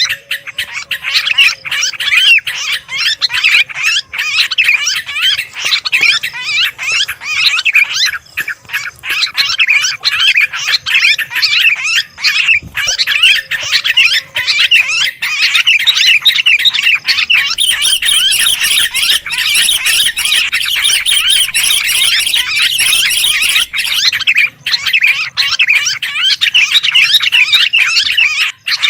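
A dense, noisy chorus of sooty-headed bulbuls and yellow-vented bulbuls chattering and calling without pause, as used in a bird-lure recording. From about two-thirds of the way in, higher, thinner calls join the chorus.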